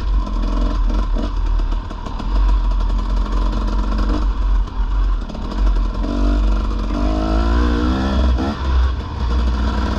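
Dirt bike engine running as it is ridden along a trail, its pitch rising and falling with the throttle over a heavy low rumble, most plainly in the second half.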